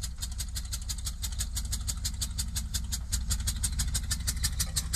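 1986 Chevrolet C10's 305 V8 idling with a low rumble and a sharp, even ticking about seven times a second. The ticking is the sign of the missing spark plug: that cylinder is dead and puffs compression out of the empty plug hole on every stroke.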